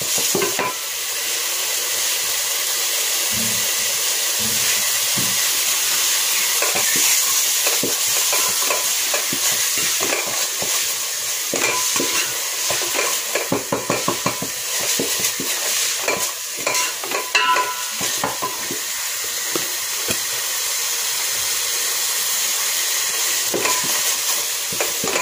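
Chopped tomatoes, onion and tomato sauce sizzling as they fry in a metal pot, with a wooden spoon repeatedly scraping and knocking against the pot as the mixture is stirred.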